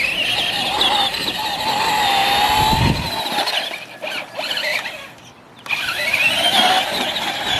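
Electric Traxxas RC car's motor whining at speed with tyre noise, the pitch rising and falling as it accelerates and slows. It drops away for about a second near the middle, then comes back with a rising whine.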